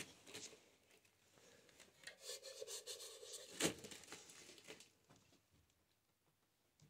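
Faint rubbing and scraping of something being handled, with a light knock midway.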